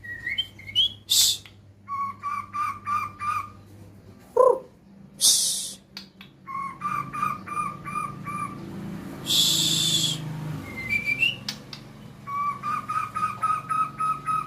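Small songbirds calling: runs of quick, evenly repeated whistled notes, about six a second, broken by loud harsh rasping calls and a few short rising whistles. Played as bait sound to stir a white-rumped shama into singing.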